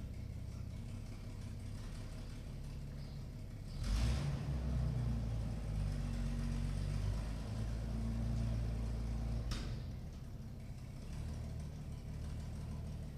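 The 1961 Chevrolet Viking grain truck's engine running steadily. It gets louder suddenly about four seconds in and settles back down near ten seconds.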